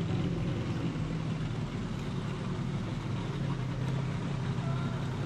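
Lamborghini Countach V12 running at low revs with a steady note as the car creeps slowly forward.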